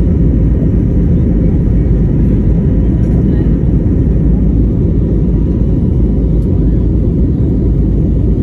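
Jet airliner cabin noise: the engines and rushing air give a loud, steady low rumble, with a faint steady hum above it.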